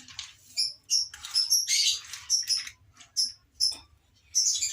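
Small birds chirping: a scattered run of about a dozen short, high notes, with a few brief hissing rushes in between.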